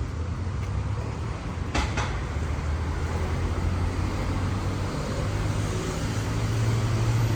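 City street traffic: a steady low rumble of passing vehicles, with a sharp double clack about two seconds in.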